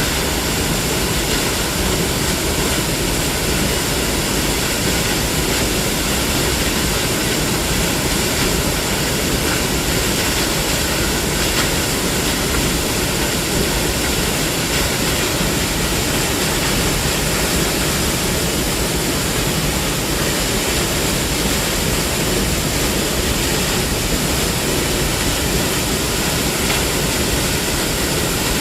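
Waterfall: water falling and rushing as a loud, steady, unbroken noise.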